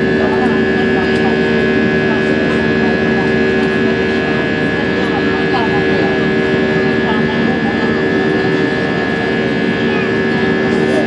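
Airbus A320 cabin noise in the climb: the jet engines drone steadily under a rush of air, with several steady humming tones held throughout.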